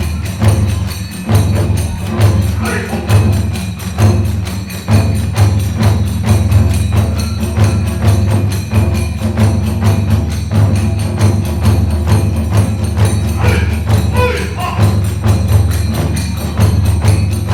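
Kagura music: taiko drums beating a fast, steady rhythm with clashing tebyoshi hand cymbals, and a bamboo flute playing briefly above them.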